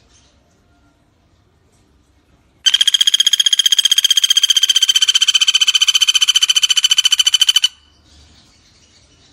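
A pelatuk bawang sings one loud, rapid trill of evenly repeated notes, high-pitched and lasting about five seconds, starting a little under three seconds in and cutting off sharply.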